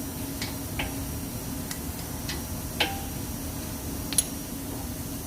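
Irregular metallic clicks and clinks of a wrench working on a brake caliper's 14 mm mounting bolts as they are loosened, the loudest two near three and four seconds in.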